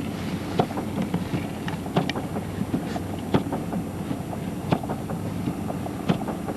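Inside a minivan driving slowly on a snowy road: a steady engine and road hum, with a sharp knock about every second and a half and lighter ticks in between.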